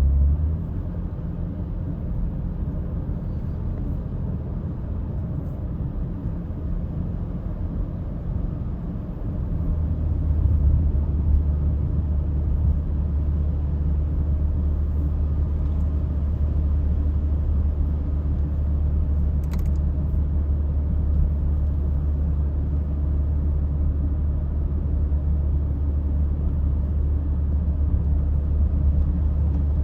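Car driving, a steady low road and engine rumble that gets louder about nine seconds in.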